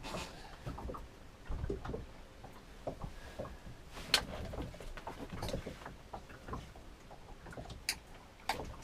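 Irregular knocks and taps in a small fishing boat, the sharpest about four seconds in, over a low wind rumble.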